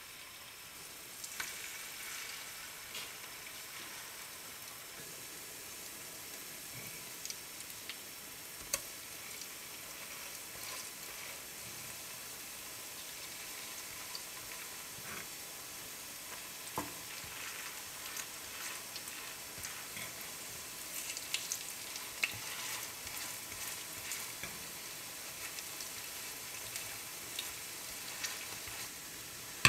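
Cabbage fritters shallow-frying in oil in a nonstick pan, a steady sizzle. Scattered sharp clicks run through it, with a metal fork now and then knocking against the fritters and the pan.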